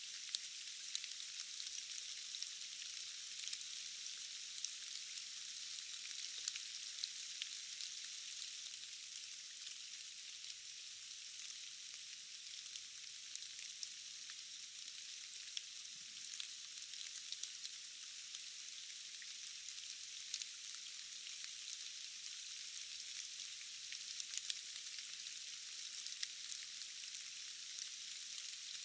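Steady rain falling in a forest: an even, high hiss dotted with many small, sharp drop ticks, with no low rumble under it.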